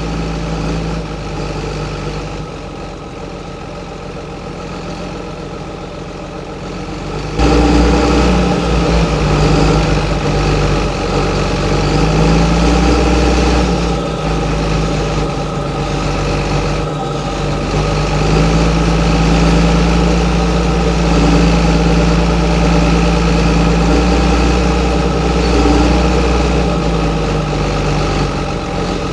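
John Deere 7920's 8.1-litre six-cylinder diesel engine running steadily. About seven seconds in it suddenly becomes louder and heavier, and from then on its pitch drifts slightly up and down.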